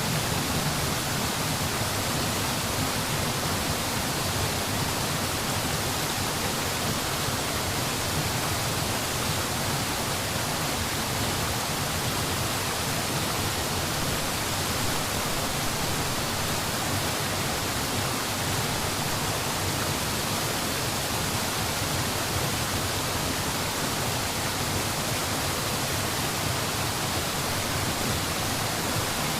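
Steady, even rushing noise, unchanging throughout.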